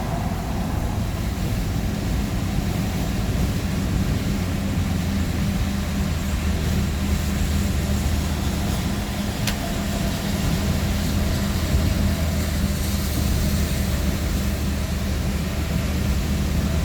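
Steady low drone of engine and road noise in a moving vehicle, with a single faint click about nine and a half seconds in.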